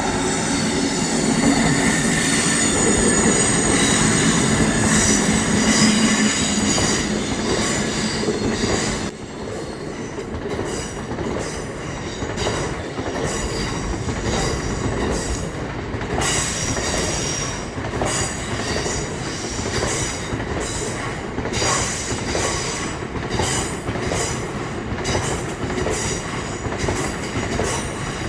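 Freight train passing at speed: loudest for about the first nine seconds, with high-pitched squealing from the wheels, then a long run of wagons with wheels clicking and clacking over the rail joints.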